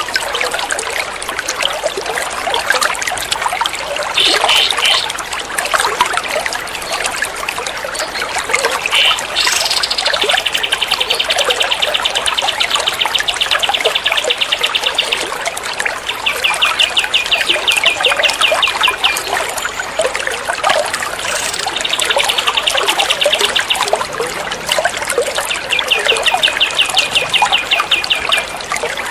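Trickling water running steadily under recorded songbird calls: a short burst early, then four runs of rapid, evenly repeated high trills of the machine-gun 'tembak' type, each a few seconds long, starting about ten seconds in.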